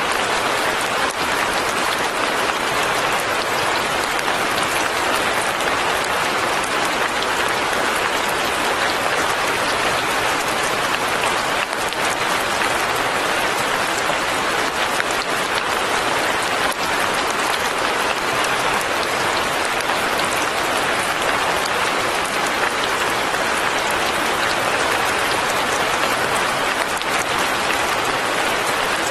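Light rain falling steadily: an even, unbroken hiss at a constant level, with no separate drops or other events standing out.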